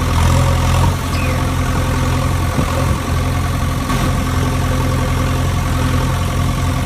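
An engine idling steadily with a low, even hum, cut off sharply at the end.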